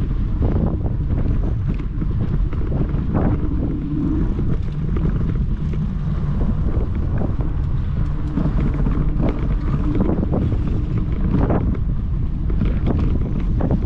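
Wind buffeting the microphone of a camera on a moving bike: a steady low rumble, broken by scattered short knocks and rattles.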